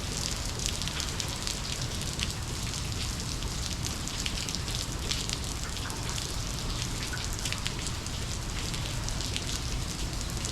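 Steady monsoon rain falling, with many individual drops ticking sharply over the even hiss of the downpour.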